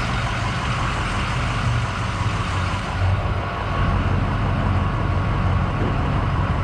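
2005 Ford F350's 6.0-litre Power Stroke V8 diesel engine running with a steady low rumble, heard from inside the cab.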